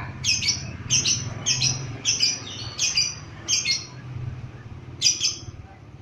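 Lovebird giving a run of short, shrill chirping calls, about one and a half a second, then a pause and one more call near the end.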